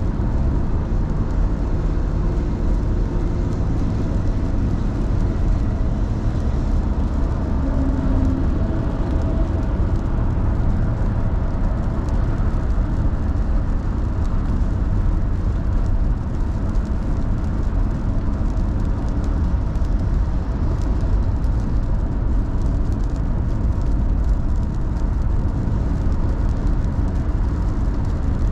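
A car driving along a road: a steady hum of engine and tyre noise.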